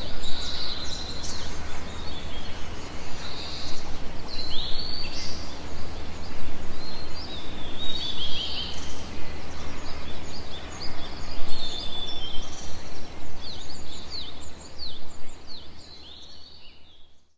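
Several birds chirping and calling in quick rising and falling notes, over a steady rough background noise with a low hum; everything fades out near the end.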